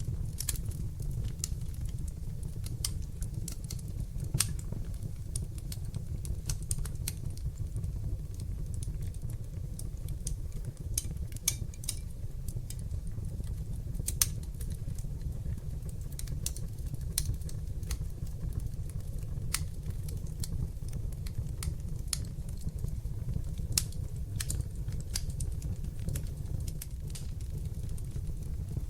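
Wood fire in a fireplace crackling and popping: irregular sharp snaps scattered over a steady low rumble of burning flames.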